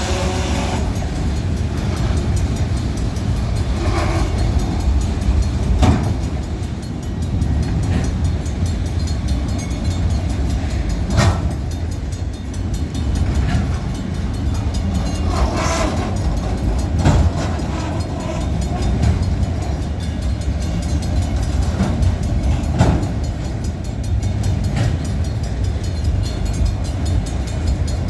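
Train rolling past: a steady low rumble of wheels on rails, with irregular clanks and knocks every few seconds.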